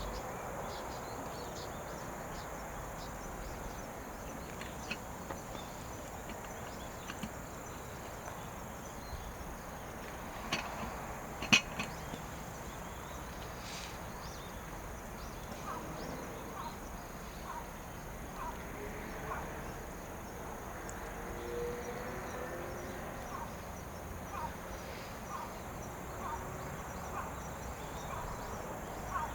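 Crickets and other insects chirring steadily, with scattered small clicks and pops, one sharp snap about eleven seconds in and a run of light ticks roughly once a second in the second half.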